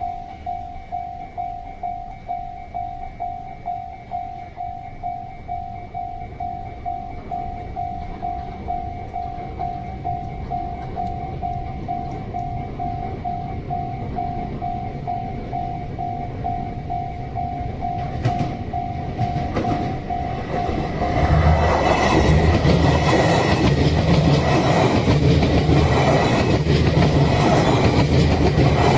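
Level-crossing warning bell dinging in a steady repeating pattern. About 21 seconds in, a JR West 283-series electric limited express train passes through the crossing, much louder, with rhythmic wheel clatter that covers the bell.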